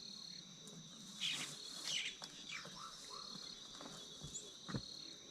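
Insects chirring steadily at a high pitch, with a couple of short rustling noises and a few brief falling chirps; two soft knocks near the end.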